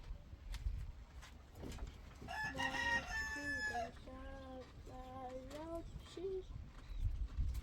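A rooster crowing once, beginning about two seconds in, a drawn-out call in several linked parts lasting about three and a half seconds.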